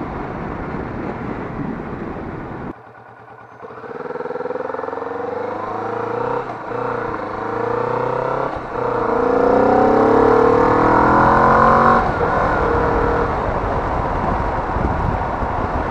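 Kawasaki Vulcan S's 649 cc parallel-twin engine accelerating hard through the gears, its note climbing in several steps with short drops at the gear changes, revved out to about 6,000 rpm. Wind noise is over the microphone throughout, and after the last climb the engine settles to a steady cruise.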